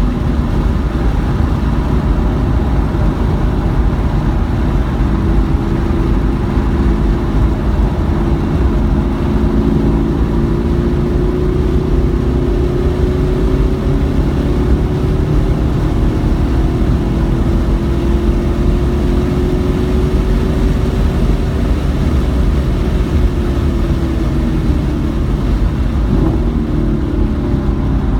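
Car engine running hard on a wet race track, its pitch climbing slowly for most of the stretch and dropping near the end, over a heavy, steady low rumble.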